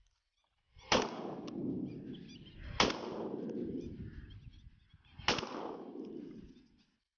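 Three shotgun shots, about two seconds apart, each followed by a long rolling echo.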